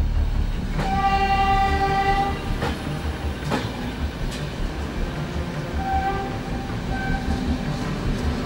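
Passenger train pulling out of a station, its locomotive rumbling low. The horn sounds one long blast about a second in, then two short toots around six and seven seconds in, with a few sharp knocks from the cars in between.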